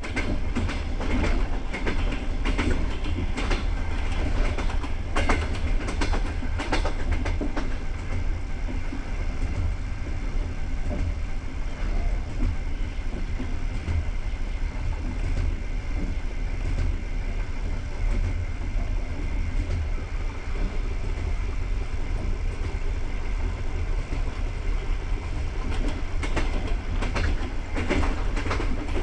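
Passenger train coach running on the rails, heard from inside the car: a steady low rumble, with wheels clicking over rail joints in clusters in the first several seconds and again near the end.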